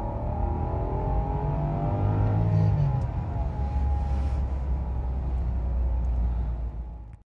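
Rolls-Royce Phantom's 6.75-litre V12 petrol engine running under a steady low hum, its pitch rising over the first couple of seconds and then easing back. The sound cuts off abruptly near the end.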